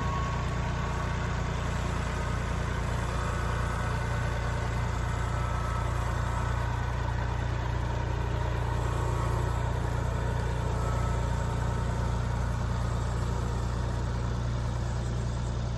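Kubota L3901 compact tractor's three-cylinder diesel engine running steadily at a low, even speed.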